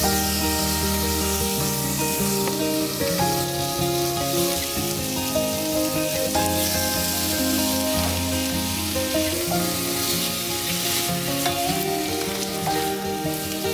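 Chicken pieces sizzling as they sauté with ginger in a hot stainless steel pot, stirred with a spatula, over background music.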